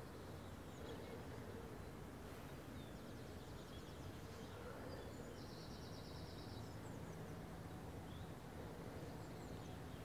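Faint songbird calls: scattered short high chirps, and a quick trill of rapidly repeated notes a little past the middle, over a steady low background rumble.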